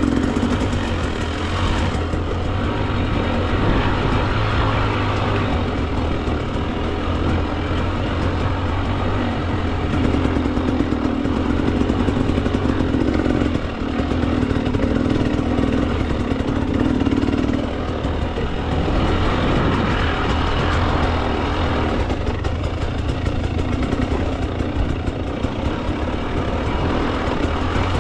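Two-stroke Husqvarna TE 300 dirt bike engine running steadily while riding, its note shifting with the throttle every few seconds.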